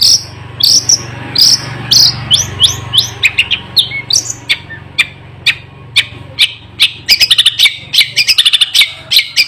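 Long-tailed shrike (cendet) singing a fast string of short, sharp, high notes, many falling in pitch, breaking into quicker rattling runs near the end. A faint steady low hum sits underneath.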